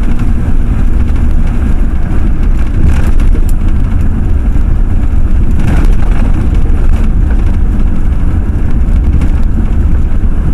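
Ford F-350 pickup truck driving, heard from inside the cab as a steady, loud low rumble of engine and road noise.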